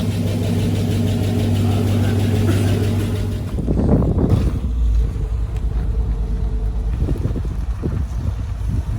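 Newly installed V8-swap engine in a project truck idling with a steady hum. About three and a half seconds in, this gives way to a deeper, uneven rumble.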